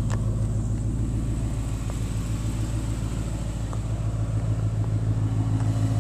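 2011 Ford Mustang GT's 5.0-litre V8 idling steadily, with a faint click right at the start.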